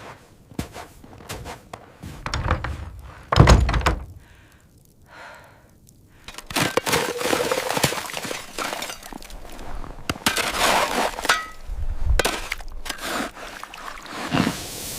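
A series of knocks and thuds, the loudest a heavy thump about three and a half seconds in, followed after a short lull by a denser run of cracking and knocking.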